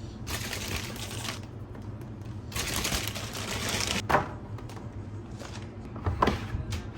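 Rustling of plastic packaging with clicks and knocks of containers being handled, while groceries are put away in the fridge. Two stretches of rustling, with a sharp click about four seconds in and another near six seconds.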